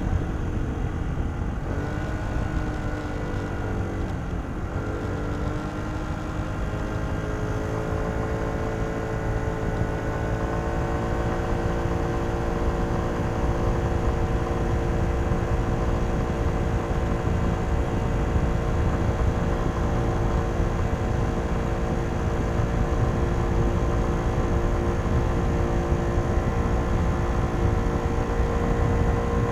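Kymco Downtown 125i scooter's single-cylinder engine through its stock exhaust, heard onboard while riding. The revs dip twice in the first few seconds, then climb slowly and hold steady as it cruises, over a steady rush of wind and road noise.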